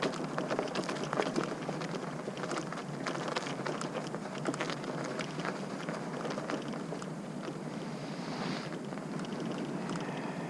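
Irregular crunching and crackling of icy, unplowed snow being crossed, many small cracks a second over a steady rush of wind on the microphone.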